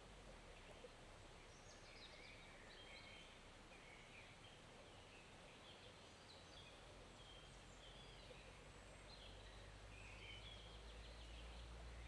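Faint forest stream ambience: a soft, steady rush of flowing water with a small bird's short chirps repeating over it, and a low rumble rising toward the end.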